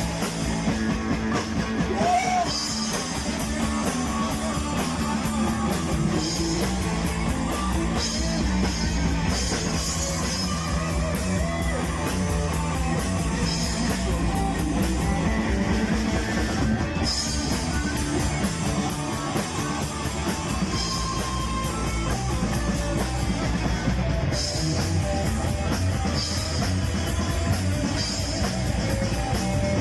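Rock band playing an instrumental passage of the song: guitar over bass and a drum kit keeping a steady beat.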